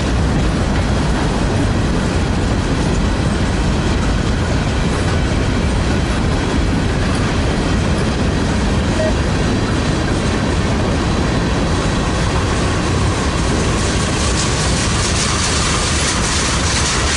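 Freight train passing close by, its steel wheels rolling over the rails in a steady, loud rumble.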